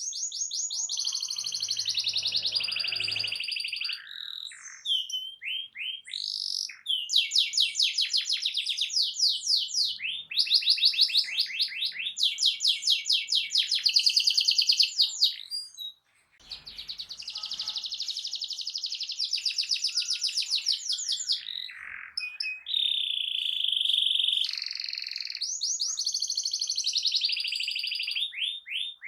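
Canary singing a long song of fast, rattling trills, phrase after phrase, with a brief break about sixteen seconds in.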